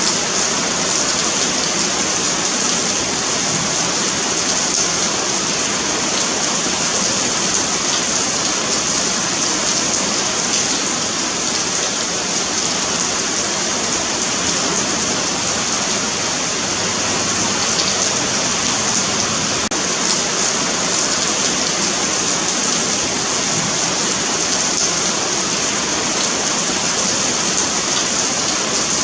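Steady rain falling on a paved sidewalk, an even hiss of many small drop impacts with no change throughout.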